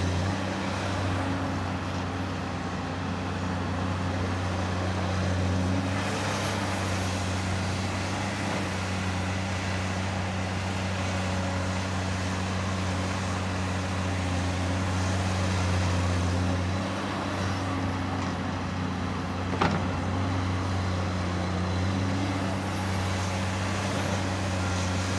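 Komatsu excavator's diesel engine running steadily under working load, its drone swelling and easing slightly as the load changes, with one short sharp knock near the end.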